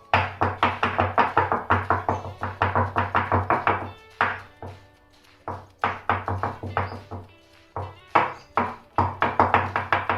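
Cake tin full of batter being rapped on the counter in quick runs of knocks, about five a second, with short pauses, to knock out air bubbles. Background music plays under it.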